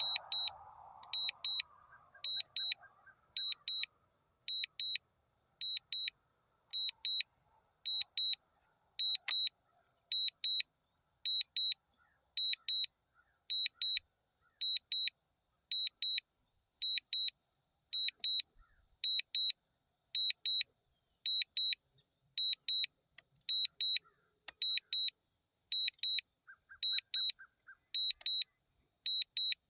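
DJI drone controller's critically low battery alarm: a high-pitched electronic beeping in quick clusters, repeating steadily about one and a half times a second, the warning that the battery is nearly flat after a forced landing.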